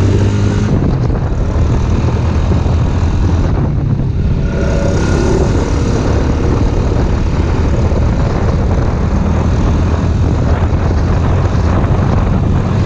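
Off-road vehicle engine running steadily under way, a loud continuous drone.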